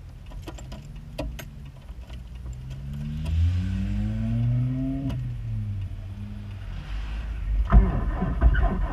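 A Subaru Impreza 2.5RS's flat-four engine, whose rod bearing has failed, revs up for a couple of seconds and then drops back. A burst of loud rattling clatter follows near the end.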